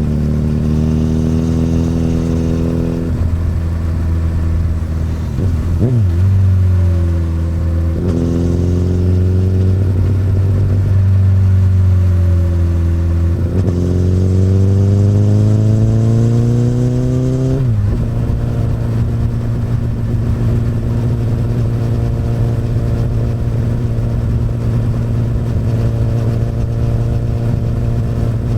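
Honda CBR1000RR's inline-four running through an Akrapovic exhaust while riding. The engine pitch shifts with gear changes and throttle, climbs steadily for several seconds, drops sharply about 18 seconds in, then holds at a steady pitch.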